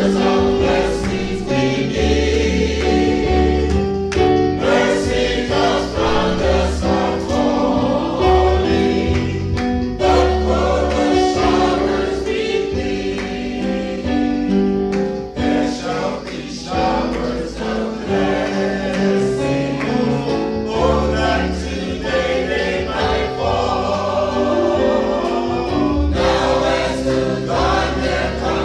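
Gospel music: a choir singing with instrumental accompaniment, a steady bass line and beat.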